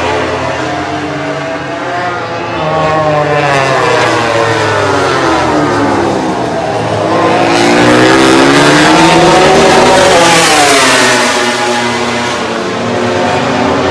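MotoGP racing motorcycles, 1000 cc four-cylinder prototypes, passing at speed on the circuit, their engine notes rising and falling with throttle and gear changes. The loudest, closest pass comes a little past the middle.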